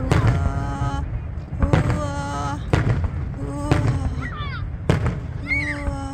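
Fireworks shells bursting overhead, a sharp boom about every second, with a steady pitched tone sounding after several of the bursts and a few short whistling glides between them.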